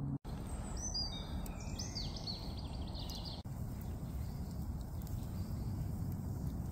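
A small bird singing a quick run of short, high, falling whistles for about two seconds, starting about a second in, over a steady low outdoor rushing noise that runs throughout.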